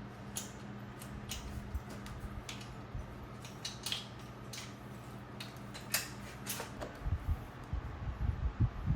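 Scattered sharp metallic clicks and clinks of hand tools and metal parts, over a steady low hum, with a run of low thumps near the end.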